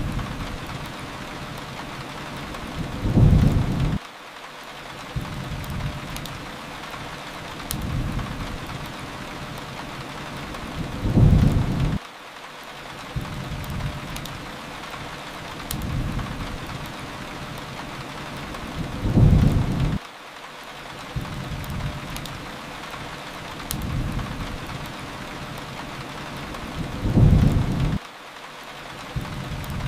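Steady rain hiss with a low rumble that swells four times, about eight seconds apart, each cutting off abruptly, the same pattern repeating like a loop.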